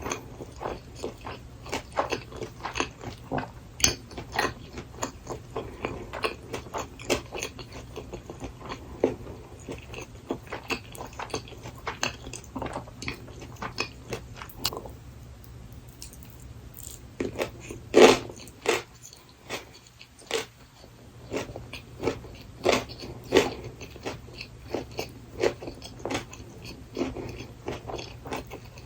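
Close-miked mouth sounds of someone biting and chewing gimbap filled with seasoned burdock root, a steady run of small wet clicks and crunches. They ease off briefly past the middle, and the loudest bite comes just after.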